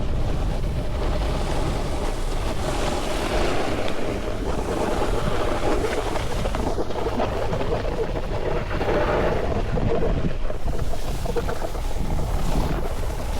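Wind buffeting the microphone: a steady, loud rushing rumble with no clear tones.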